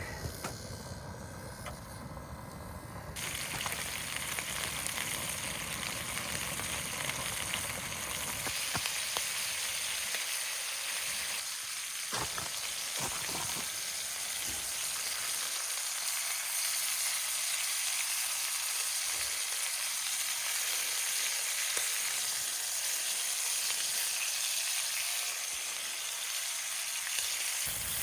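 Food sizzling and frying in a pan on a wood-burning camp stove, a steady crackling hiss that sets in about three seconds in after a low hum.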